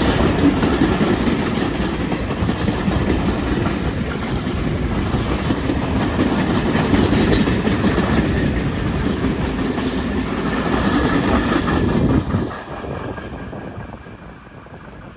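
Heavy freight train of steel-coil wagons rolling past, wheels clacking over the rail joints; the sound drops off sharply about three-quarters of the way through as the end of the train goes by, then fades away.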